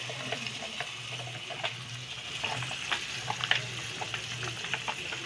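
Tomato spaghetti sauce pouring from a pouch into a hot wok of frying corned beef and hot dog: a steady sizzle with scattered pops and clicks, busiest around the middle, over a low steady hum.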